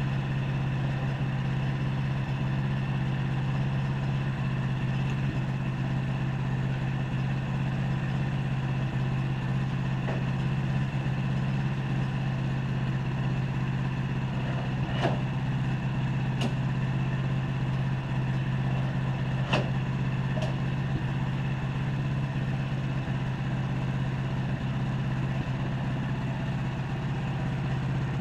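Sawmill engine running steadily with a constant low drone, with a few sharp knocks around the middle.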